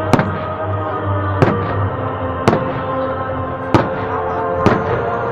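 Fireworks shells bursting: about five sharp bangs roughly a second apart, with music playing steadily underneath.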